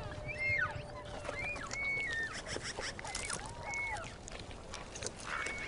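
Wolf pack whining and yelping in many short, overlapping high calls, with one long, steady, lower howl that ends about a second and a half in.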